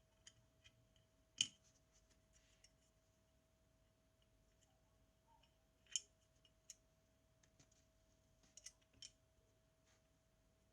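Scattered small sharp clicks and taps of metal tools and small parts being handled, two louder ones about a second and a half in and about six seconds in, and a quick cluster near the end, over a faint steady hum.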